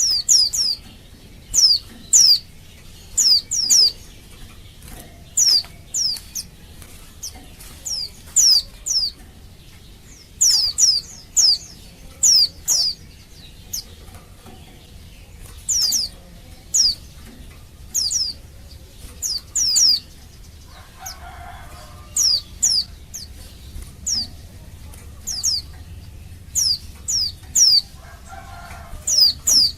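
Female white-eye (pleci) giving short, high call notes that slide downward, often in quick pairs or threes, repeated about once a second: a female calling to males.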